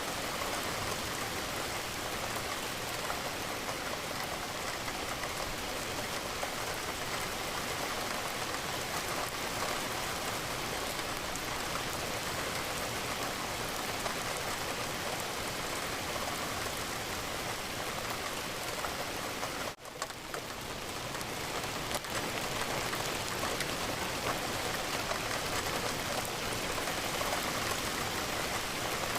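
Steady rain pattering against a window. The sound briefly drops out about two-thirds of the way in, then comes back.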